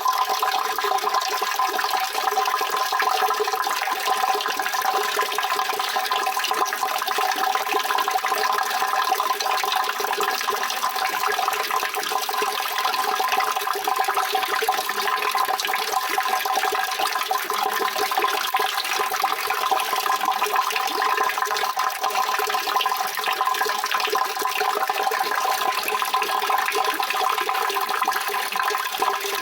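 Steady rushing water: an even, unbroken hiss with little low end that holds the same level throughout.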